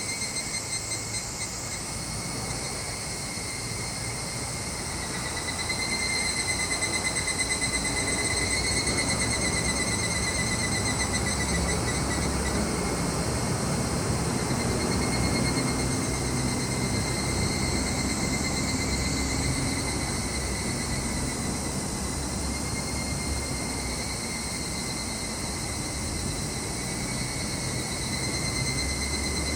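Crickets singing in a steady, continuous high trill. Under them, a low rumble swells in about five seconds in and fades near the end.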